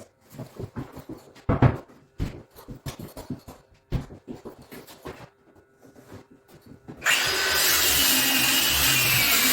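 Scattered knocks and handling clicks of tools and timber, then a woodworking power tool starts suddenly about seven seconds in and runs loud and steady with a faint wavering whine.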